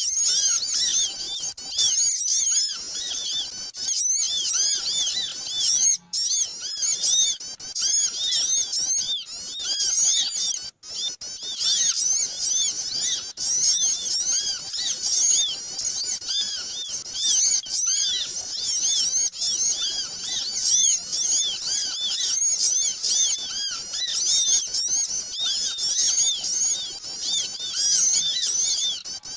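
A dense, noisy chorus of many small birds chirping at once, rapid high chirps overlapping without pause: a bird-luring (pikat) recording meant to draw small birds in.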